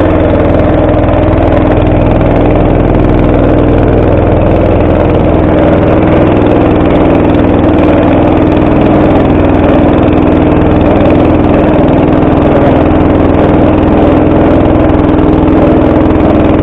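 Small boat engine running steadily at an even pace, close by.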